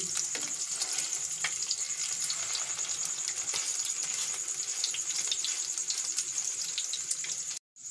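Egg-dipped shami kababs shallow-frying in hot oil in a pan: a steady sizzle with fine crackling, cutting out briefly near the end.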